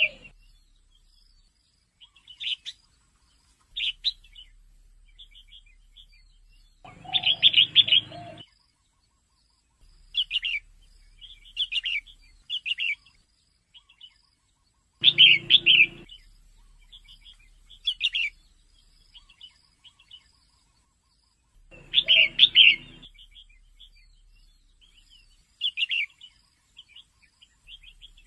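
Female red-whiskered bulbul calling: loud bursts of rapid chattering notes about every seven seconds, with shorter single chirps in between.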